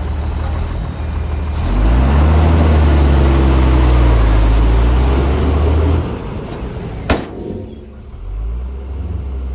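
Heavy diesel engine of earth-moving machinery revving up about two seconds in and working hard under load, then dropping back to a lower note. A single sharp clank comes about a second later.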